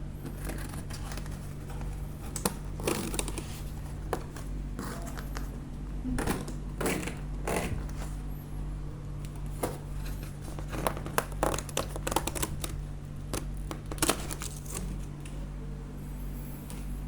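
Irregular crinkling and rustling with scattered sharp clicks, as of packaging being handled, over a steady low hum.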